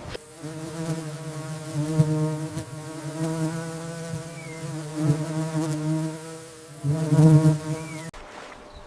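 A flying insect buzzing in flight, a low steady hum that swells and fades several times and cuts off about eight seconds in.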